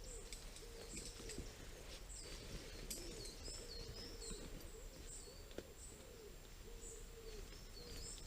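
Faint woodland birdsong: short high chirps and wavy twittering calls, over a low cooing that repeats throughout.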